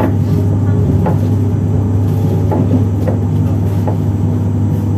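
Z 20823, an SNCF Z2N electric multiple unit, running: a steady low hum with a few sharp clicks from the wheels over the track.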